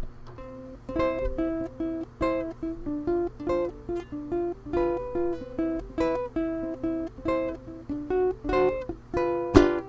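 A solo plucked acoustic string instrument picks a melody of separate, quickly fading notes in a steady repeating pattern, with a louder strum near the end.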